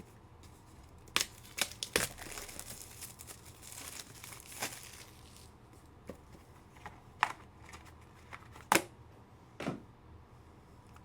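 Foil trading card pack wrappers being torn open and crinkled, with a rustling stretch early on and several sharp clicks and taps of cards being handled.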